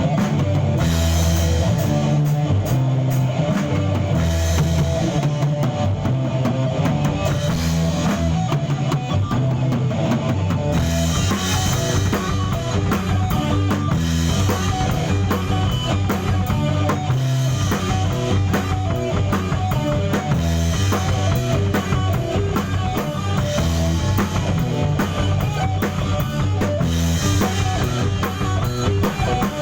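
Band playing rock music: a drum kit with bass drum and loud high splashes every few seconds over deep, shifting bass notes, with guitar.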